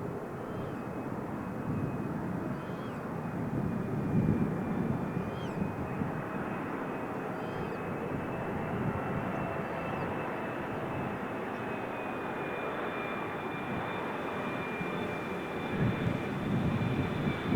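Boeing 777-300ER passenger jet on landing approach, its GE90-115B engines giving a steady high whine over a broad rumble as it passes.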